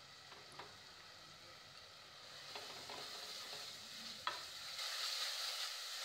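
Masala frying in a steel pot with nut powder stirred in by a wooden spoon: a faint sizzle that grows louder about two seconds in as the stirring starts, with a few sharp scrapes and knocks of the spoon against the pot.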